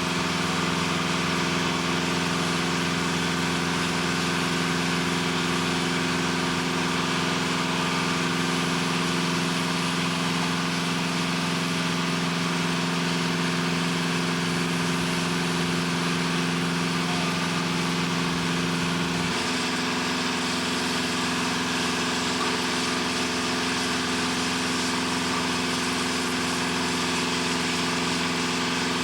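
Steady drone of heavy industrial machinery: a constant rush with several steady low hums, the lowest of which shift abruptly about two-thirds of the way through.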